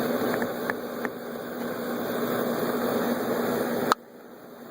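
Steady hum and hiss with a faint low steady tone and a few light clicks in the first second, cutting off suddenly with a click near the end.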